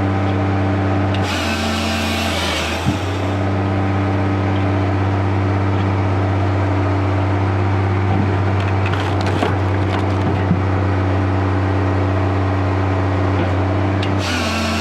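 A wood-processing machine running steadily with a constant motor hum, with bursts of wood being cut about a second in and again near the end.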